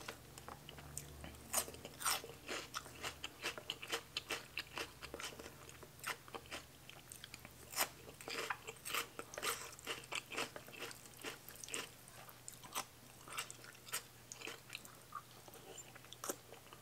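Close-miked mukbang eating: a person chewing and crunching mouthfuls of food, with many short, irregular crunches.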